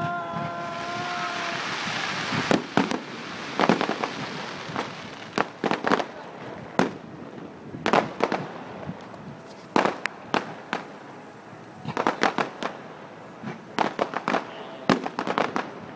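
Aerial fireworks going off in quick clusters of sharp bangs and crackles. A steady hiss and a held pitched tone run through the first couple of seconds.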